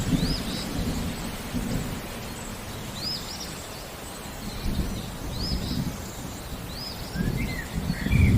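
Thunder rumbling under steady rain, the rumble swelling and fading several times and growing louder near the end. A bird gives short, high rising-and-falling chirps every second or two, with a few lower notes near the end.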